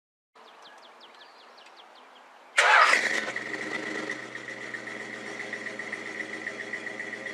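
A car engine cranks briefly, catches with a sudden loud burst about two and a half seconds in, then settles into running steadily.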